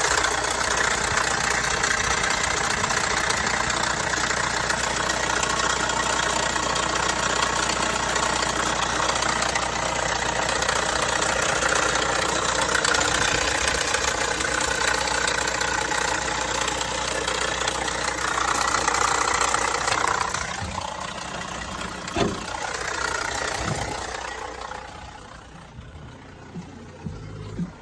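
Vauxhall Astra 1.6 running with a rattle from the car, a rattle the dealer has found no fault for. The sound stays steady for about twenty seconds, then dies down, with one sharp knock a couple of seconds later.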